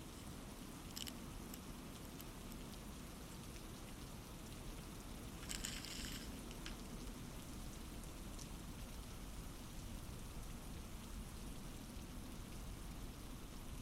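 Steady soft rain patter, with a few light ticks and a short crinkling rustle about five and a half seconds in.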